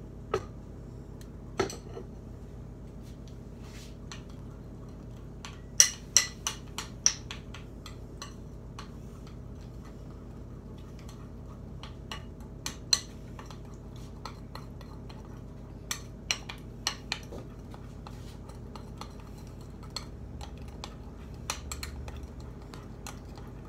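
A spoon clinking against a bowl in short clusters of clicks while brownie mix and water are stirred into a batter, over a steady low background hum.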